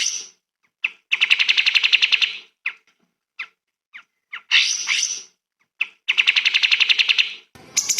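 Recorded bird song: a bird repeats a phrase of a few short, sharp chips followed by a rapid trill of about ten notes a second lasting about a second and a half, given twice. Near the end it cuts to a different recording with a background hiss and quicker, higher calls.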